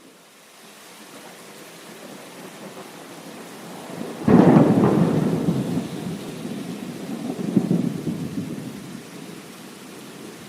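Heavy rain falling steadily. About four seconds in, a sudden loud thunderclap breaks into a rumble that swells again a few seconds later and then fades.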